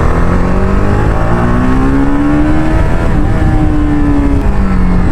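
Motorcycle engine pulling while being ridden: its pitch climbs steadily for about three seconds, breaks briefly, holds, then drops near the end. Heavy low wind rumble lies underneath.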